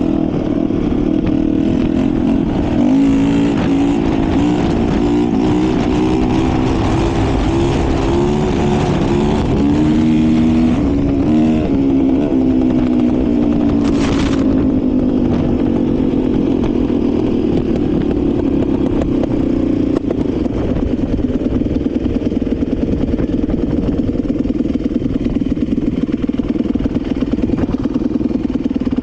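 Motorcycle engine running, its pitch rising and falling with throttle changes for the first dozen seconds, then settling to a steady run. A single sharp knock comes about halfway through.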